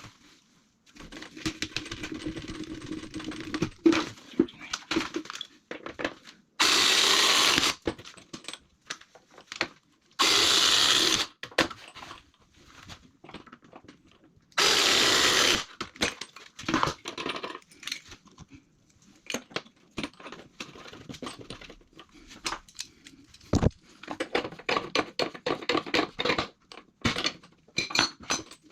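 Plumbing work on pipework and fittings: scattered clicks, clinks and knocks of tools and parts being handled. Three loud, even hissing bursts of about a second each come in the first half.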